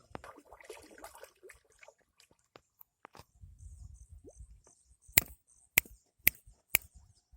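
Four sharp knocks about half a second apart, the loudest sounds here, after a stretch of low rumbling and scattered light clicks.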